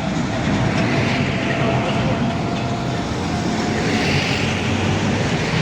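Large truck's diesel engine running loudly with a steady drone, growing louder at the start.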